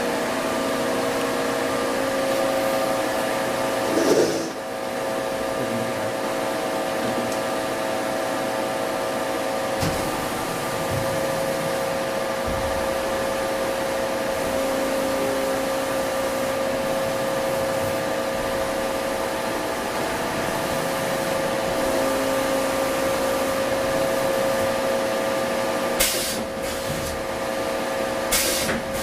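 Hankook VTC-85R CNC vertical turning center running a live-milling operation: a steady machine whine made of several held tones over a hiss, broken by a few short, louder bursts of hiss, once early and twice near the end.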